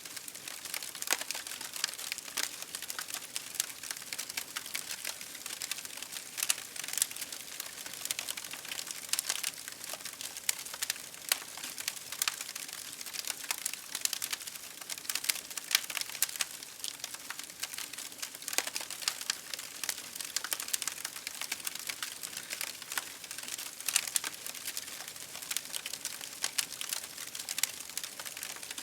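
Campfire crackling and popping, with dense, irregular sharp snaps over a soft steady hiss of burning wood.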